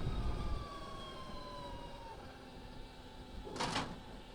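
Electric motorcycle motor whine from an Energica Experia: thin tones that fall steadily in pitch over the first two seconds as the bike slows, over a low rumble of wind and road. A brief rush of noise about three and a half seconds in.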